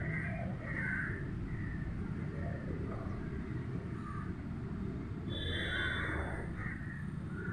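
Birds calling now and then over a steady low outdoor rumble, with the loudest call about five and a half seconds in.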